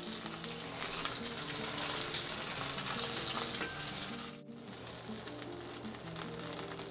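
Sauce-soaked bolillo bread frying in shallow hot vegetable oil in a skillet, a steady sizzling hiss with fine crackling as the chile sauce's moisture hits the oil. The sizzle breaks off briefly about four and a half seconds in and comes back quieter.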